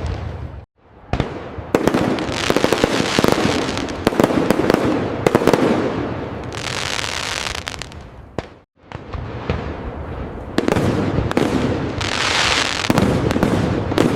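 Fireworks display: rapid sharp bursts and pops over low booms, with stretches of dense crackling. The sound drops out briefly twice, just under a second in and near nine seconds.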